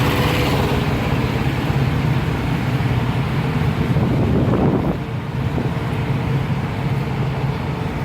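Semi-truck diesel engines idling in a truck yard, a steady low hum, with a brief louder swell about four seconds in before the level drops slightly.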